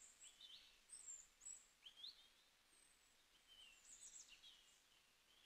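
Near silence, with several faint, short, high-pitched bird chirps.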